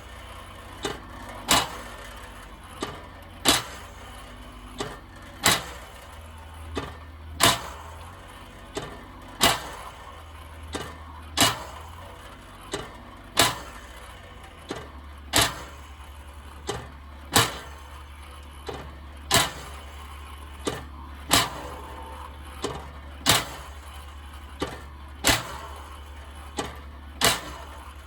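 Even, rhythmic ticking about once a second, alternating loud and soft, over a low steady hum like a vehicle running.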